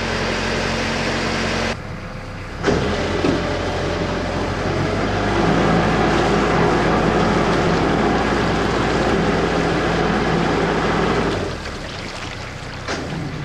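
Canal narrowboat engine running steadily at a low hum, with a noisy wash over it. The sound drops away briefly about two seconds in and steps down in level near the end.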